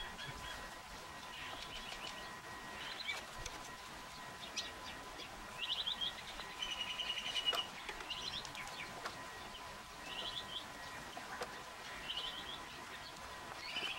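Small birds chirping in short, repeated phrases, with a rapid trill a little past the middle as the loudest call.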